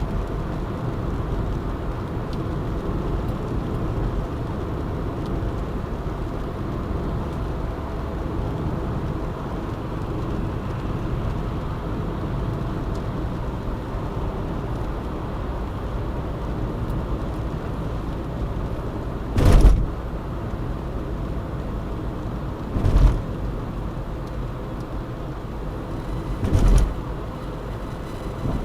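Car driving at a steady speed with constant road noise. Three short, sharp thumps a few seconds apart come in the last third.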